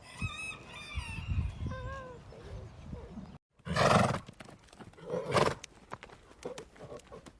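A horse's calls and hoof clops: after a sudden cut about three and a half seconds in come two loud calls, about a second apart, over a run of sharp hoof clicks. Before the cut there are high, wavy chirping calls and low thumps.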